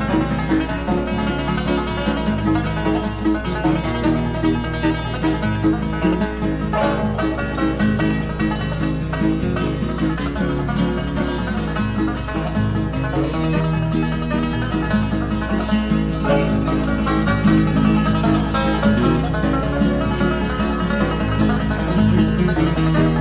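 Bluegrass band playing an instrumental at a steady level, with five-string banjo to the fore over guitar, mandolin and bass, and no singing.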